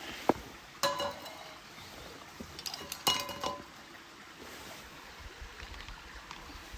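Tableware clinking: a sharp click, then two ringing metallic clinks about two seconds apart, as utensils strike dishes.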